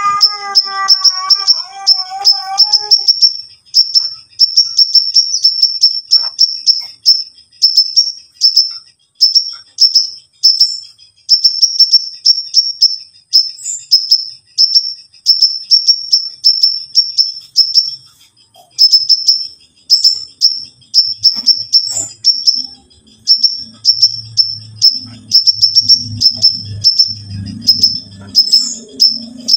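Crimson sunbird singing without pause: rapid, high-pitched chirping trills in phrases about a second long, repeated with short gaps. Music fades out in the first few seconds, and a low hum comes in under the song from a little past the middle.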